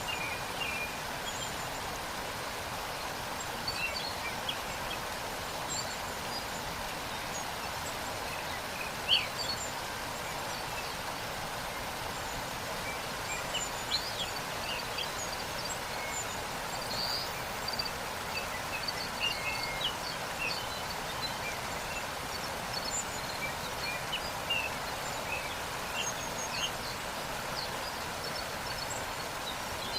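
Steady rushing of a waterfall, with short bird chirps scattered over it and the loudest chirp about nine seconds in.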